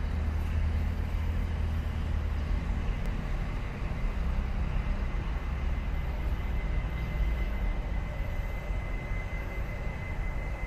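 Steady low rumble of trains moving slowly through a station: an EMU800 electric multiple unit pulling away while an E200-class electric locomotive approaches. A thin, steady high whine comes in about halfway through and grows stronger near the end.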